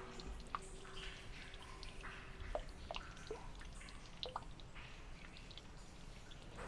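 Faint, irregular dripping: single drops plinking a few times a second at uneven intervals.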